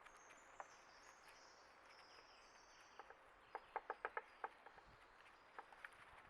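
Faint outdoor ambience with small birds calling in thin, high chirps. A quick run of about seven small clicks comes around the middle, with a few single clicks after.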